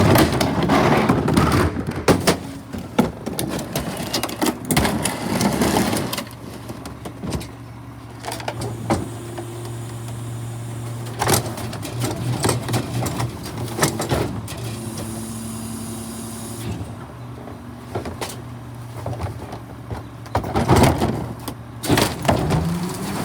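A vehicle engine running steadily, with scattered knocks and clatter, a noisier loud stretch in the first few seconds, and a rising whine near the end.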